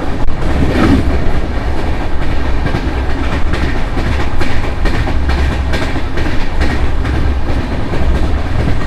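Passenger express train running at speed: a loud steady rumble with the wheels clattering over the rail joints again and again.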